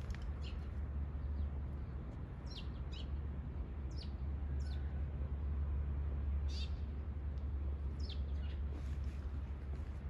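Small birds chirping, short high calls every second or two, over a steady low rumble.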